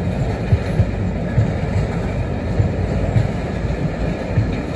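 A freight train's loaded vehicle-carrier wagons rolling past: a steady rumble of wheels on the rails with uneven low thuds.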